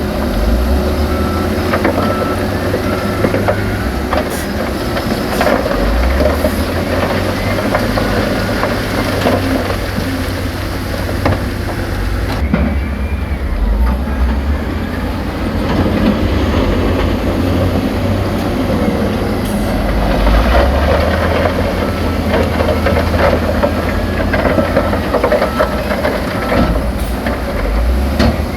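Heavy diesel earthmoving machines working under load: a steady low engine rumble with scattered metallic clanks and rattles.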